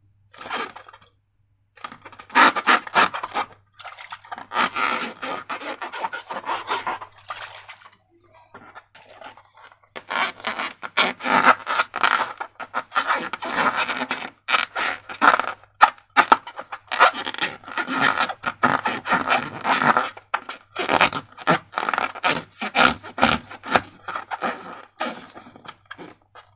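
Slime and balloons being worked by hand: irregular runs of scraping, rubbing and crackling strokes, broken by short pauses and a longer lull near the middle.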